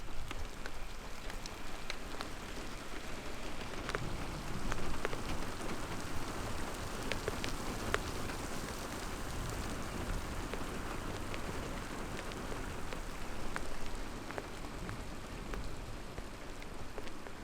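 Steady rain falling on a car, heard from inside, with scattered sharp ticks of single drops hitting the roof and glass.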